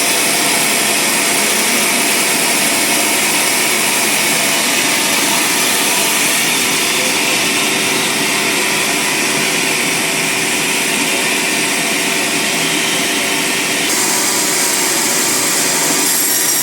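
Band sawmill running steadily as its blade cuts along a large log, a dense, whining machine noise; its upper pitch shifts about two seconds before the end.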